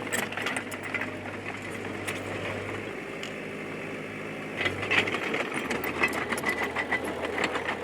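Komatsu D20P bulldozer's diesel engine running, with the engine note shifting twice. Rapid metallic clanking and clicking from the tracks gets louder about halfway through.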